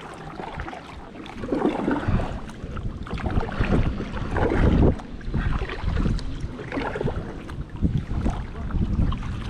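Kayak paddling: uneven swells of paddle water noise, with wind rumbling on the microphone.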